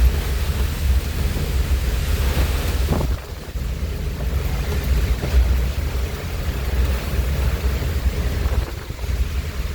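Strong wind and heavy rain in a storm, with gusts buffeting the microphone into a deep rumble that eases briefly about three seconds in.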